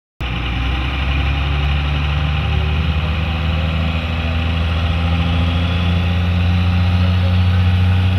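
Diesel pickup truck engine idling with a steady low drone, which cuts in abruptly just after the start and grows slightly louder toward the end.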